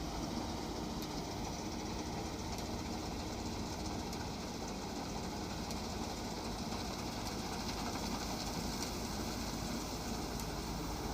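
Wheat-harvesting machine's engine running steadily, a constant, even drone with no change in speed.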